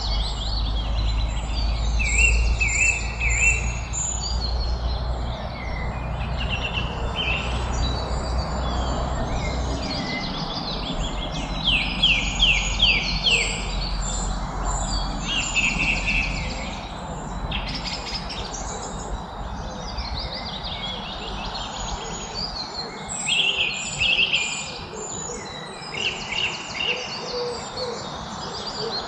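Several birds singing and calling over one another, with quick chirps and trills, over a steady background hiss. A low rumble fades out about ten seconds in.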